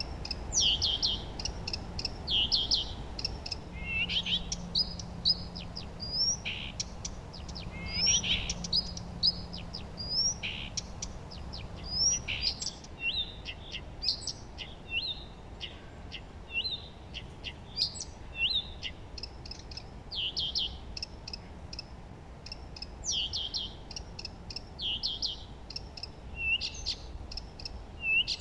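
Songbirds singing: short, high chirping phrases and trills one after another, with no pause longer than a second or so.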